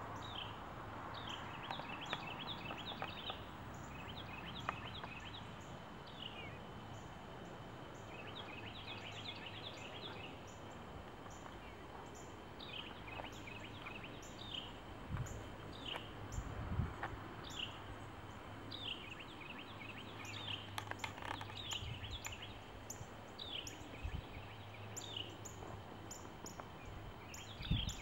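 Small birds chirping in quick runs of short, falling chirps over a faint steady outdoor background, with a few soft low thumps.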